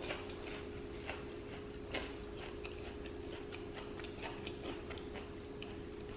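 Close-miked chewing of food in a mukbang: many small irregular mouth clicks and crunches, several a second, over a steady low hum.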